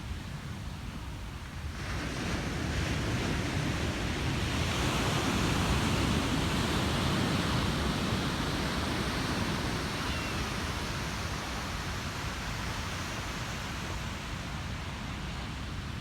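Ocean waves breaking on a beach: a wave crashes about two seconds in, its wash swells for several seconds and then slowly fades back into the steady surf hiss.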